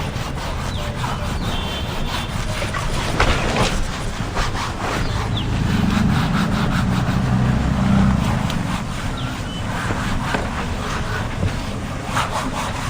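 Repeated scrubbing strokes over a steady low rumble.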